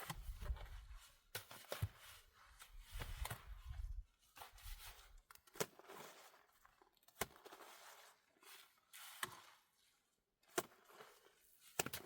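Faint, irregular knocks and clicks, with a low rumble under them for the first four or five seconds.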